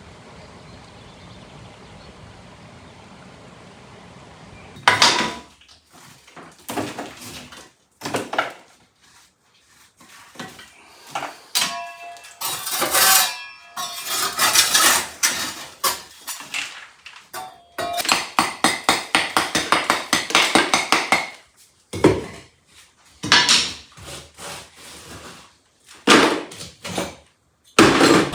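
Hand work with hard objects: a series of knocks, clinks and scrapes, some with a short metallic ring, and a fast run of tapping about two-thirds of the way through. It opens with a few seconds of steady hiss.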